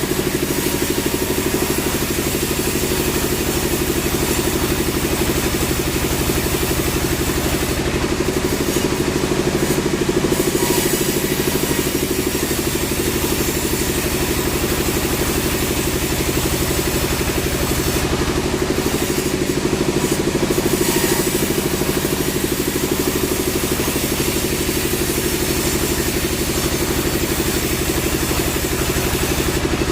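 A sawmill's engine running steadily at an even speed, with no rise or fall throughout.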